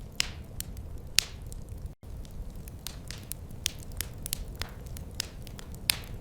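Wood fire crackling: irregular sharp pops and ticks over a low, steady rumble, the loudest pops about a second in and near the end. The sound cuts out for an instant about two seconds in.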